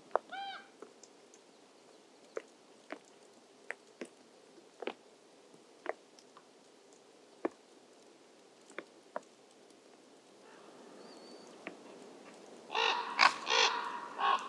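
Harsh, crow-like cawing calls of a crow-family bird, in a dense run starting a little before the end. Before that there are scattered faint taps or clicks, and a short call right at the start.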